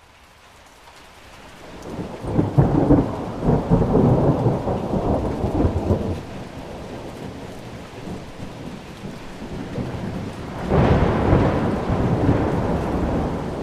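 Thunder rumbling twice over steady rain. The sound swells in from quiet; a long low rumble comes a couple of seconds in, and a second peal starts suddenly near the end.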